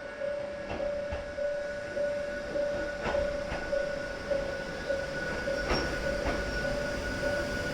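Hakone Tozan Railway Moha 1 type electric railcars rolling slowly, their wheels clicking over rail joints in pairs every couple of seconds. Under it a steady tone pulses about twice a second.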